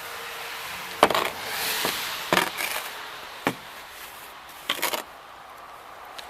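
Powder snow being brushed and scraped off a car: four or five sharp strokes, roughly a second apart, with a hiss of snow after the first.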